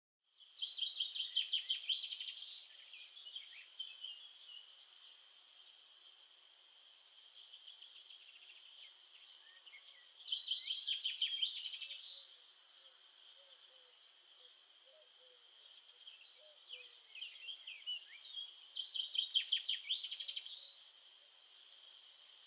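Songbirds singing: three bursts of rapid, high chirping trills, the first about a second in, another around ten seconds and the last around eighteen seconds, over a steady high chorus of birdsong.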